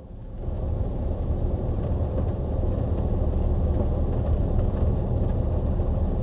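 Car engine and road rumble heard from inside the cabin, a steady low drone that builds up in the first second.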